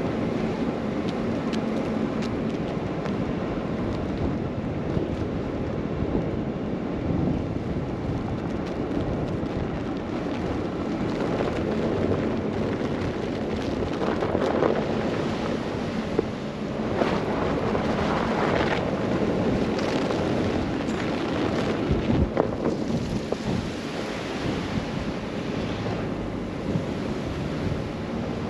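Blizzard wind gusting against a moving car, over steady road and tyre noise, swelling several times in the second half.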